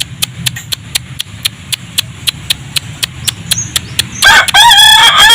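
Rooster crowing: one loud, pitched crow starts about four seconds in and runs on past the end. Before it there is a steady run of rapid clicks, about six a second.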